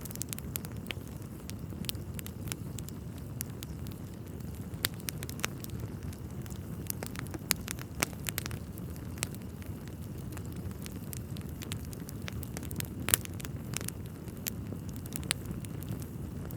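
Wood fire burning in a fireplace: a steady low rumble of flames with irregular crackles and pops from the logs, one sharper pop a little after the middle.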